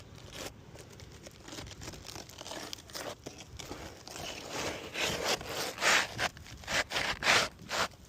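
Asphalt shingles scraping and rubbing against each other's gritty surface: soft scuffing at first, then a quick series of louder back-and-forth scrapes in the second half, as the lifted shingle is worked back into line.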